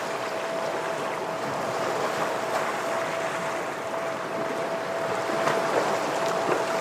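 Ocean waves washing against rocks in a steady, unbroken rush, with a thin steady tone held throughout and a few faint ticks.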